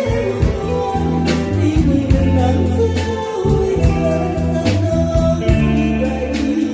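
A singer performing an enka-style ballad with instrumental accompaniment: long held vocal notes over sustained bass and a slow, steady drum beat.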